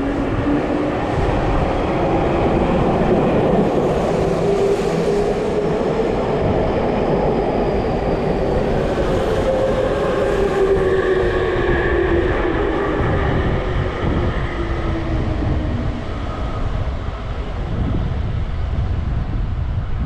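Electric commuter train running into the platform, with a motor whine that climbs and then falls in pitch over the rumble of the wheels on the rails.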